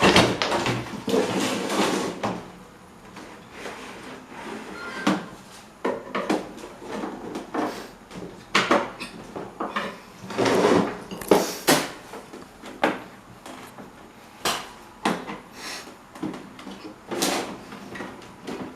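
Irregular knocks, clicks and short scrapes of fan parts being handled and worked by hand on a bench, with a longer rubbing stretch near the start and again about halfway through.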